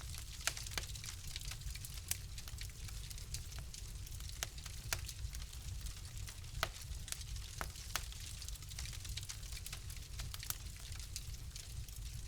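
Wood fire crackling in a fireplace: irregular sharp pops and snaps over a steady low rumble and hiss of the flames.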